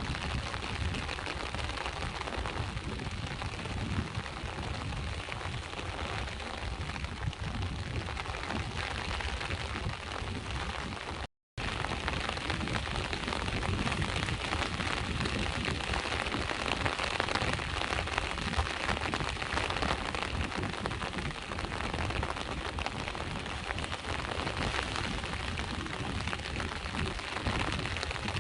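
Steady rain falling with sea waves washing, a continuous dense hiss over a low rumble. The sound drops out completely for a split second about eleven seconds in.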